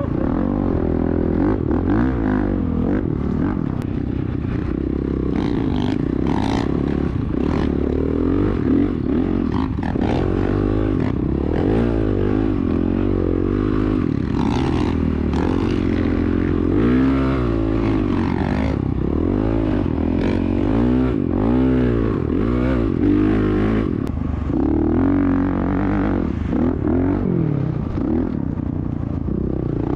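Dirt bike engine being ridden hard, its pitch rising and falling again and again as the throttle is worked, with some clatter.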